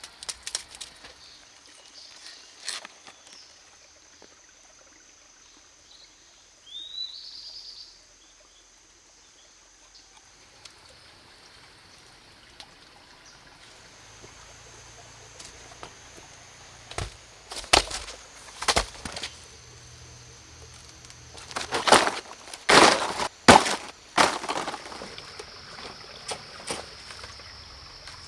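A series of sharp knocks, scattered and then in a loud cluster about 22 to 24 seconds in, over a steady high-pitched drone, with one short rising chirp about seven seconds in.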